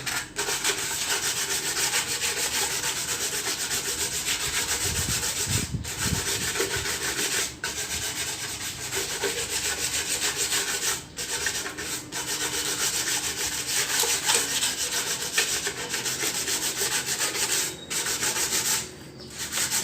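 Sandpaper rubbed by hand over a metal exhaust manifold, a continuous scratchy scrubbing that pauses briefly several times, taking rust and dirt off the bare metal.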